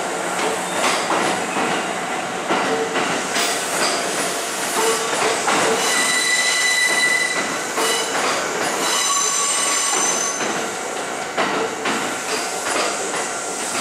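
Kintetsu electric commuter train running past on the station tracks, its wheels clacking over rail joints and points. High-pitched wheel squeal comes in the middle for a few seconds.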